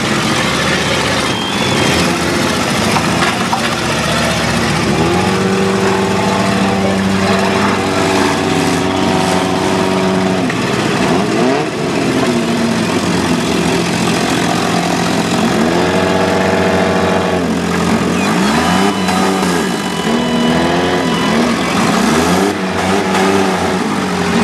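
Several demolition-derby small cars' engines running at once, revving up and dropping back again and again as the cars accelerate and back off across the pit.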